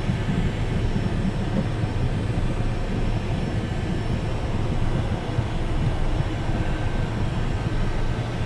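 Cockpit noise inside an Embraer Phenom 100 light jet: its twin turbofan engines are running at low power on the ground. They make a steady low rumble with a faint, even whine above it.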